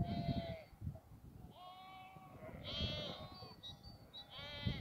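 Animal calls: about four short pitched cries, each roughly half a second long, one after another, over a low rumble.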